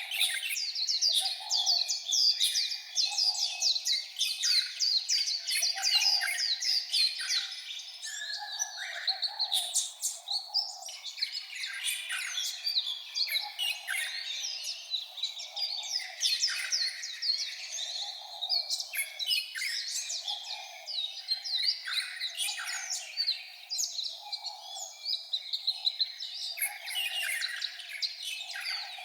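White-eye singing: a long, rapid run of high chirping and twittering notes with only short breaks.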